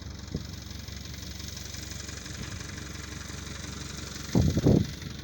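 Vehicle engine idling steadily, with a short louder low sound near the end.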